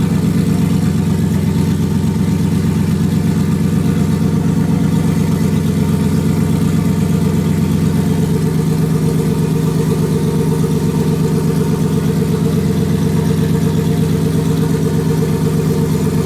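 Turbocharged 2018 Ford Mustang GT's 5.0 Coyote V8 idling steadily on its base tune, freshly started for the first time after the turbo build.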